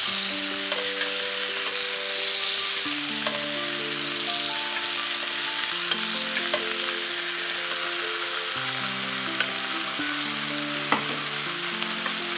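Butterflied chicken breasts sizzling steadily as they sear in garlic-thyme butter and olive oil, basted with a spoon, with a few light clicks of the spoon against the pan. Soft background music with sustained notes plays underneath.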